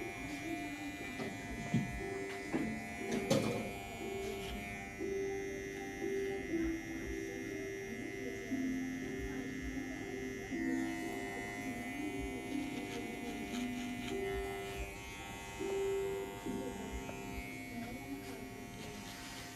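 TPOB GO electric hair clippers running with a steady motor whine, with a sharp knock about three seconds in. Background music plays under it.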